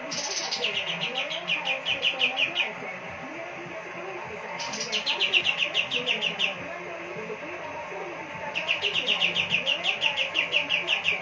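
Kapas tembak songbird in full song: three bursts of fast, evenly repeated high notes, about eight a second, each burst lasting two to three seconds, with short pauses between.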